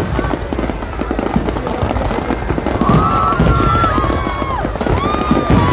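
Aerial fireworks bursting and crackling in a dense, continuous barrage. From about three seconds in, gliding high tones rise and fall over the crackle.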